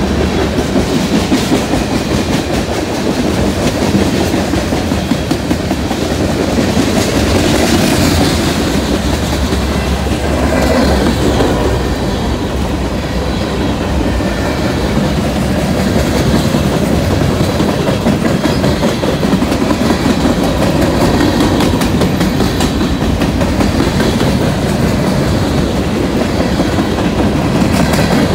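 Freight train cars (boxcars, covered hoppers and tank cars) rolling steadily past: a loud, continuous rumble with the clickety-clack of steel wheels over the rail joints.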